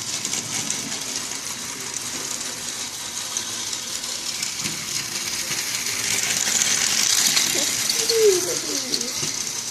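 Battery-powered toy train's small motor and plastic wheels rattling steadily as it runs around plastic track, with a short wavering sound near the end.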